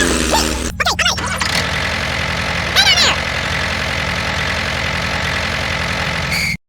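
A small engine running steadily at idle, with short chirps over it about a second in and again about three seconds in; the sound cuts off abruptly near the end.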